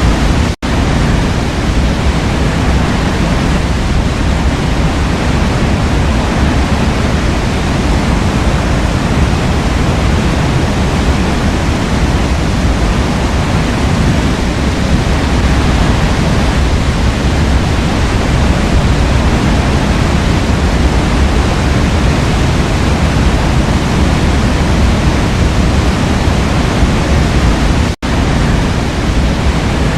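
Waterfall rushing in a steady, even roar of falling water, broken twice by a momentary drop-out, about half a second in and near the end.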